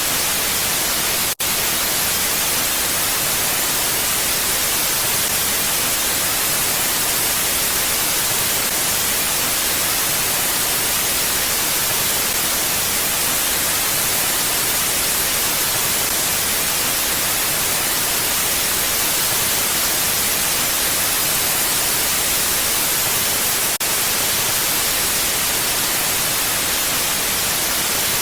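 Steady, even hiss of mountain wind with no swelling gusts; the sound drops out for an instant about a second in.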